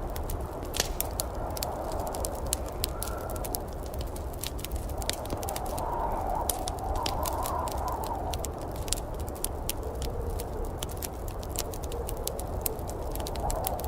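Wood fire crackling, with frequent sharp pops and snaps over a steady low rumble and hiss of storm ambience that swells briefly midway.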